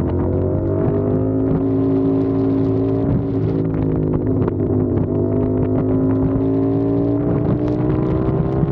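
CFMOTO 450SR motorcycle's parallel-twin engine running under way at a steady, even pitch that rises gently over the first second or so.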